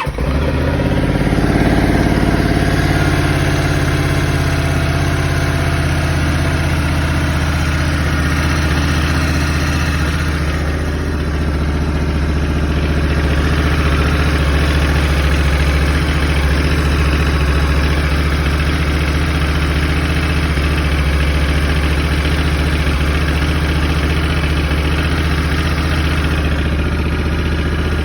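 2021 Honda Africa Twin DCT's parallel-twin engine idling steadily just after a cold start, settling over the first few seconds, with the engine rattle the owner hears on cold starts.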